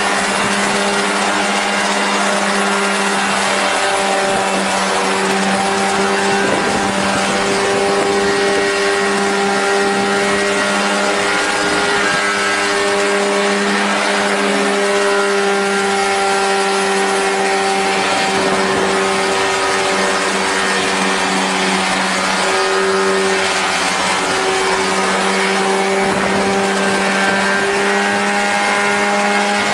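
Engine of a home-built DIY aircraft running steadily at high speed, its pitch wavering slightly up and down.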